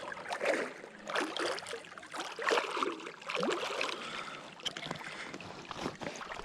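Water sloshing and splashing close to the microphone, with irregular small knocks and drips.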